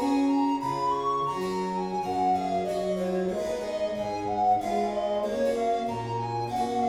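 Baroque chamber music: a harpsichord playing with held melody and bass notes above and below it, steady throughout.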